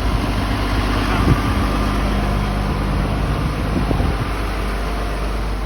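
Strong storm wind blowing, with a steady engine hum running underneath.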